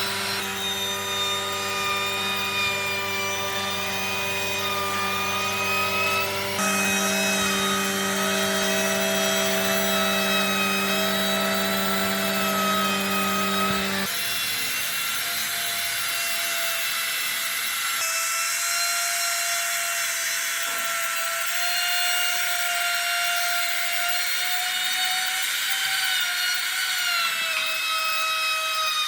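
Electric woodworking machinery running, its motor whine sagging and recovering slightly in pitch as it works wood. The sound changes abruptly a few times: a low hum drops out about halfway through.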